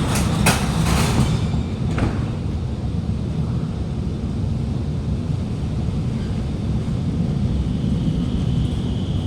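Inside an Alstom Movia R151 metro carriage, a few sharp knocks as the doors close and lock in the first two seconds, then the steady low rumble of the train pulling away. A high steady whine comes in near the end.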